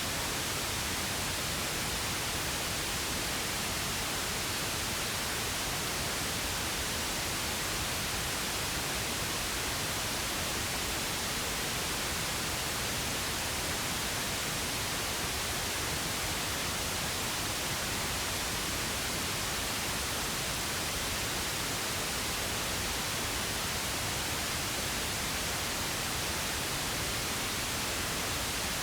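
Steady, unchanging pink noise: an even hiss spread evenly across low and high pitches.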